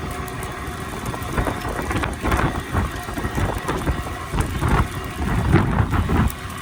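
Strong wind buffeting the microphone in irregular gusts, over the steady hum of a fishing boat's engine.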